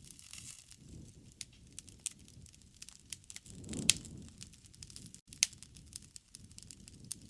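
Wood campfire crackling, with scattered sharp pops over a low rumble. The loudest pop comes about four seconds in, on a brief swell of the rumble.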